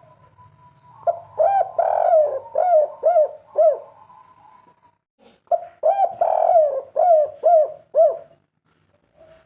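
Spotted dove (derkuku) cooing its 'kuk 3' song: two phrases with a short pause between, each a run of about six deep coos.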